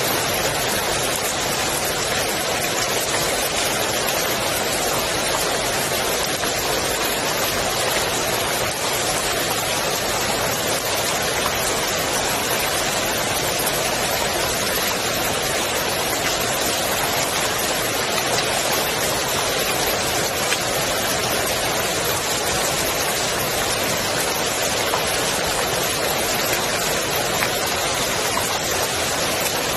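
Rain falling steadily on the water of a swimming pool: an even, unbroken hiss of drops.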